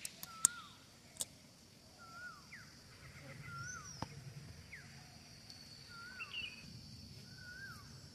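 Birds calling: one bird repeats a short rising-and-falling note about every second and a half, with a few other brief downward-sliding calls in between. A few sharp clicks sound in the first second, and a steady high hiss comes in about three and a half seconds in.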